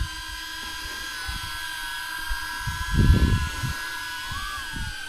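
A steady high-pitched whine of several tones, like a small motor running, with a short rise in pitch near the end. Low muffled thumps come and go, loudest about three seconds in.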